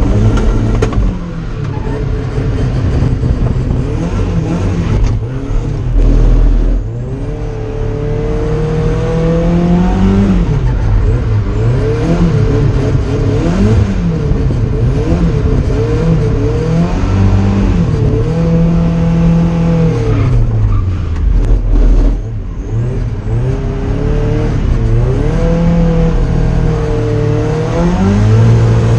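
Drift car's engine revving hard, its pitch rising and falling over and over as the throttle is worked on and off, with louder surges twice.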